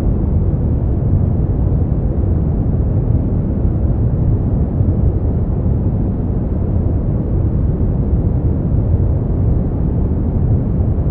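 Brown noise: a steady, deep rushing hiss, strongest in the bass and falling away toward the highs, unchanging throughout.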